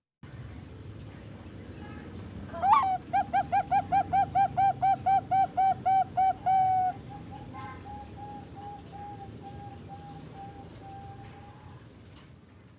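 Young Bangkok-strain zebra dove (perkutut) singing: a rising opening note, then a rapid, even run of about a dozen coos at roughly three a second, followed by a quieter trailing run of similar notes.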